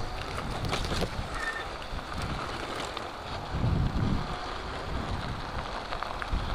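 Wind buffeting the microphone while riding an e-bike, with a low rumble from the tyres and a few faint clicks. The rumble swells briefly about halfway through.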